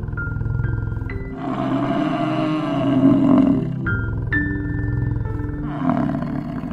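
Deep, throbbing calls of a large wild animal, twice swelling into rougher, louder bellows, over soft music with struck mallet notes.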